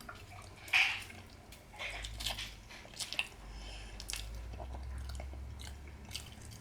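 Close-up eating sounds of a person chewing and biting into seafood boil, with short wet clicks, the loudest about a second in.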